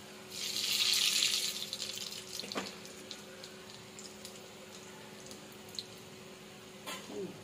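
Kara sev dough strands sizzling in hot oil: a loud hiss rises about half a second in, then fades over the next two seconds to a faint crackle of frying. A couple of light clicks near the end.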